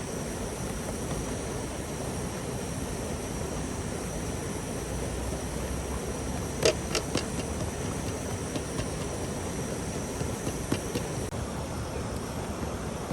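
Steady rushing of river water, with a few sharp clicks or knocks about halfway through.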